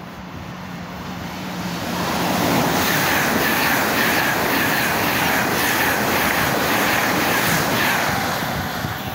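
A train passing at speed close by. The noise builds over the first two seconds, holds loud with a regular pulsing about twice a second, then eases off near the end.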